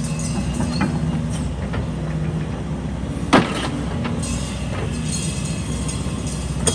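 Heavy diesel machinery running steadily, with a sharp clank about three and a half seconds in and another near the end.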